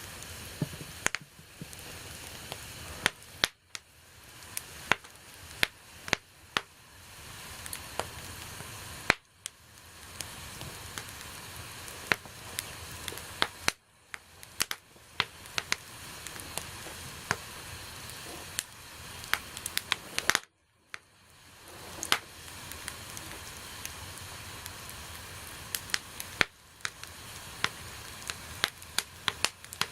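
Wood bonfire burning: a steady hiss with frequent sharp crackles and pops, cut by several brief drop-outs.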